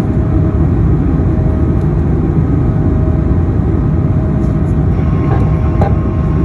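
Airbus A220-100's Pratt & Whitney PW1500G geared turbofans at takeoff power: a loud, steady low rumble with a faint steady tone running through it.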